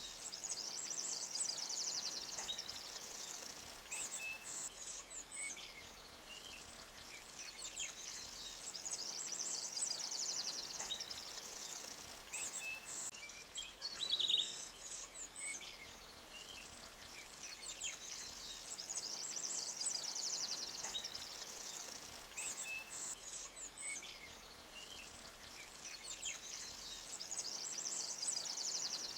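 Forest ambience: small birds chirping and trilling high, the trills swelling and fading every eight or nine seconds over a faint steady hiss of a creek flowing over rocks. One louder chirp comes about halfway through.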